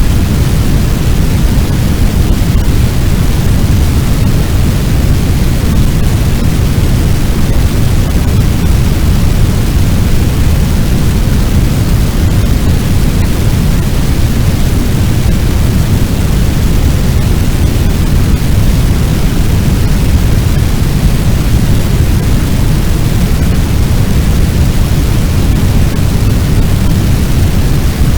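Fire sound effect: a loud, steady, low rushing noise meant to sound like a large blaze, unchanging throughout.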